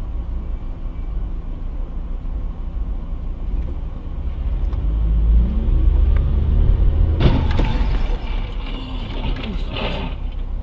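Low engine and road rumble of a moving car heard from inside the cabin. About seven seconds in, a sudden louder, noisier sound lasts roughly three seconds.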